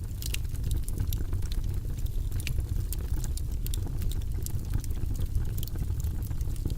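Log fire burning in a fireplace: a steady low rumble of flames with many quick, irregular crackles and pops, several a second.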